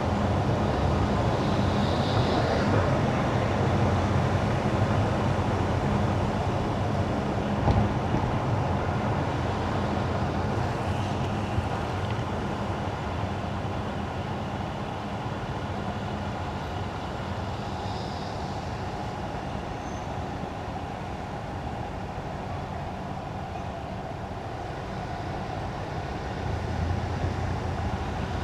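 Car driving on a wet road: steady tyre and road noise with a low running hum, easing off through the middle and building again near the end. A single sharp click about eight seconds in.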